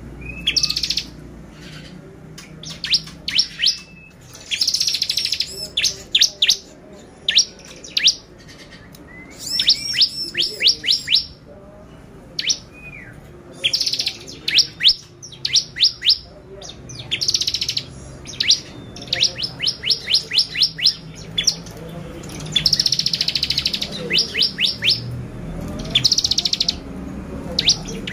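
Bar-winged prinia (ciblek) singing: repeated bursts of rapid, sharp high notes and buzzy trills, each burst lasting about a second, with short pauses between them.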